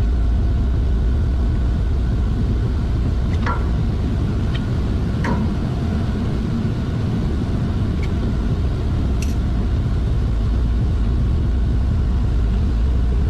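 Steady low machinery hum with faint steady whining tones. A few light, sharp clicks and taps sound over it, most of them in the first half.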